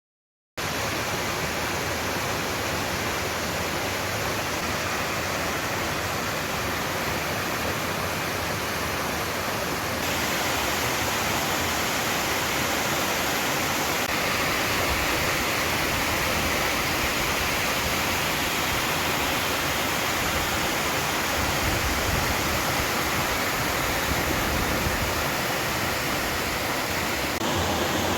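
Waterfall rushing, a steady dense hiss of falling water that starts abruptly after a brief silence; its tone shifts slightly about ten seconds in and again near the end.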